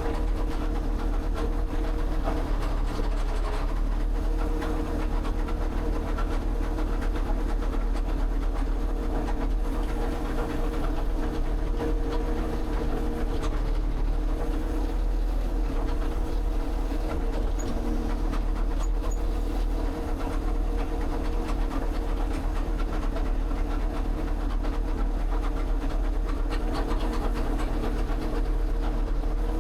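A machine running steadily, a constant low hum with a few steady tones and no change in pace.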